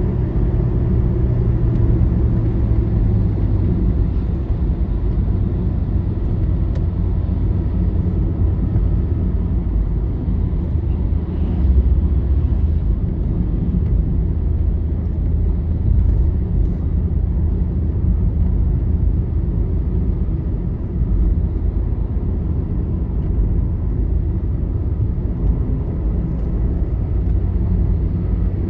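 Steady low rumble of a vehicle travelling along a highway: engine drone and tyre noise on the road surface, with no sharp events.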